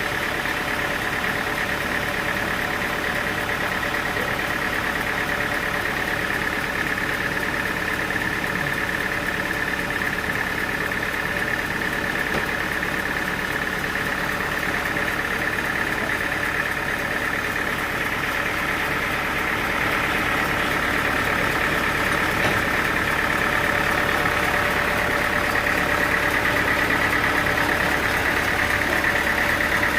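Sawmill machinery running steadily: an engine hum with a steady high whine over it, growing a little louder in the last third.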